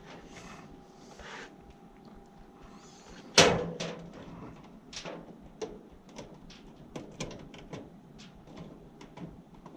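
Handling clicks and taps, with one sharp knock about three and a half seconds in that rings briefly, as of tools and panel parts being handled.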